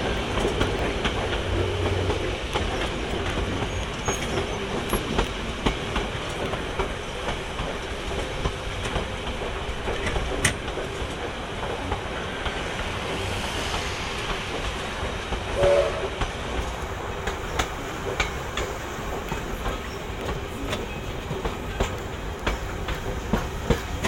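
Passenger carriage rolling along the track, with a steady running rumble and wheels clicking over the rail joints at irregular intervals. A brief pitched sound stands out about two-thirds of the way through.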